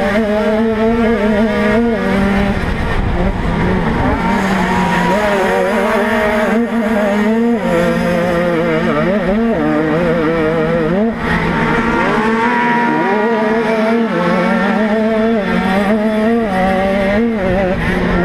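On-board sound of a 50 cc two-stroke motocross bike racing: a high-pitched engine wail whose pitch dips and climbs again several times as the throttle is eased and opened, with wind rumble on the microphone.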